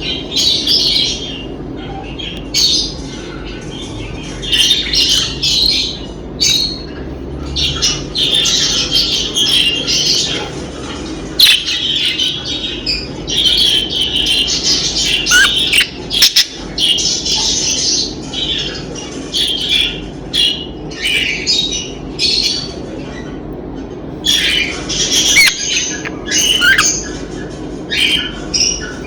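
Birds calling over and over in short, harsh squawks and chirps, in clusters throughout, over a steady low background hum.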